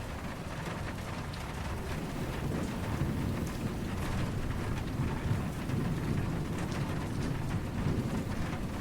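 Steady rain falling, with soft, distant thunder rumbling low underneath that swells a few seconds in.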